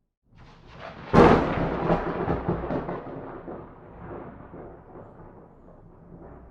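A thunderclap: a low rumble builds, a sharp crack hits about a second in, then the thunder rolls and fades over the next few seconds.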